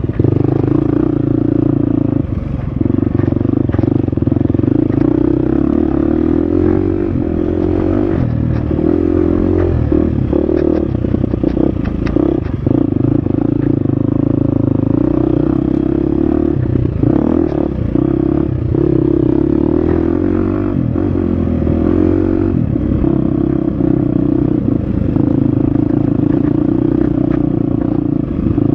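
Husqvarna FX 350 four-stroke single-cylinder dirt bike engine running hard on a trail, the throttle easing off and opening again several times, with scattered knocks and clatter from the bike over rough ground.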